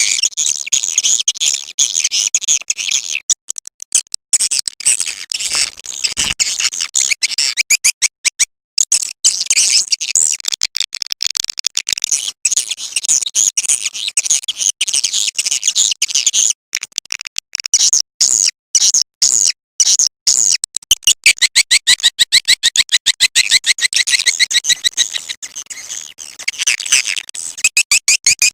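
Swiftlet lure-call recording: a dense, continuous stream of rapid, high-pitched chittering twitters from edible-nest swiftlets, coming in fast pulse trains with short breaks. This is the calling sound played to draw swiftlets into a nesting house.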